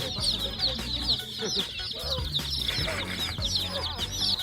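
A crowd of young chicks peeping all at once: many short, high, falling peeps overlapping without pause, over a low steady hum.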